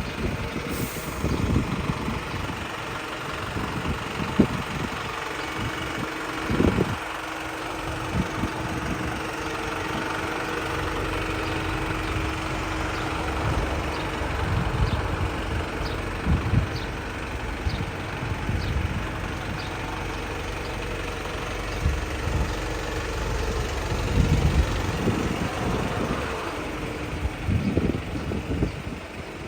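Volvo FL240 truck's diesel engine idling steadily, with irregular low thumps over it.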